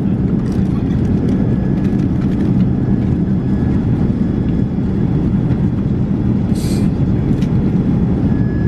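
Steady low rumble of an airliner's passenger cabin in flight, with a few faint clicks and a brief hiss about six and a half seconds in.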